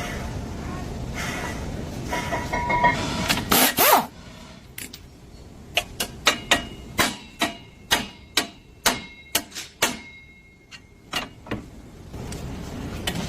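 A steady low rumble for about four seconds, then a string of sharp metallic knocks and clinks, some ringing briefly, roughly one or two a second.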